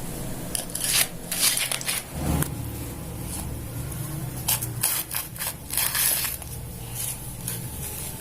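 Dry sand scooped and poured into a toy truck's bed, in irregular bursts of gritty scraping.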